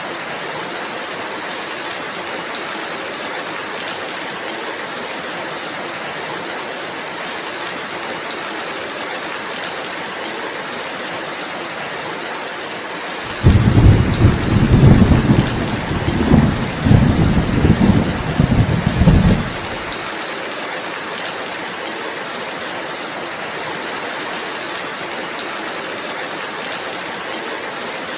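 Steady rainfall. About halfway through, a loud, low roll of thunder starts suddenly, rumbles in waves for about six seconds, then cuts off abruptly.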